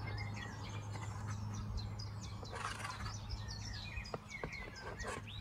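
Small birds chirping and twittering repeatedly over a steady low hum, with a brief hiss and a few soft clicks in the second half.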